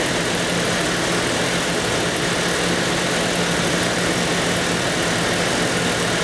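Golen Engine 4.6 stroker inline-six in a Jeep idling steadily on a dyno, with a steady low hum and an even hiss over it.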